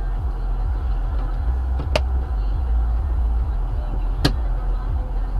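Car on the road, its engine and tyre noise making a steady low rumble, with two sharp clicks, about two seconds in and again about four seconds in.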